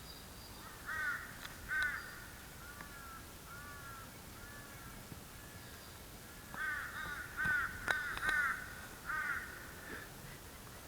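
A bird's repeated short, harsh calls: a pair about a second in, fainter ones through the middle, and a quicker run of calls in the second half, with a sharp click among them.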